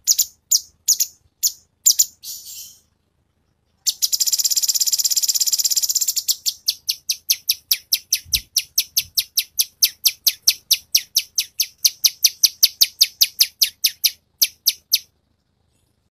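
High-pitched songbird calls: a few separate chirps, a short pause, then a rapid trill about four seconds in that breaks into a long series of sharp repeated notes at about four a second, stopping a second before the end.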